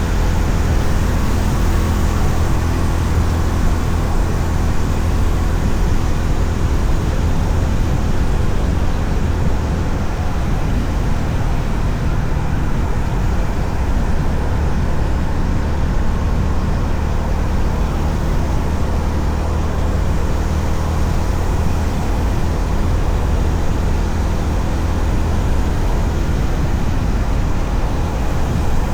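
Honda CB350RS's single-cylinder engine running steadily while riding, with a constant rush of wind and road noise over it.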